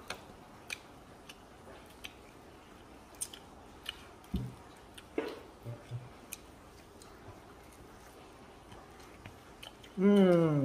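Close-up chewing of tahu sumpel (fried stuffed tofu), with scattered soft wet clicks from the mouth and from tearing the tofu. Near the end comes a short hum of the voice that falls in pitch.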